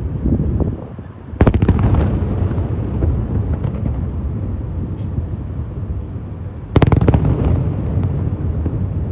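Fireworks display: aerial shells bursting over a continuous low rumble. Two rapid volleys of sharp cracking bangs come, one about a second and a half in and another near seven seconds.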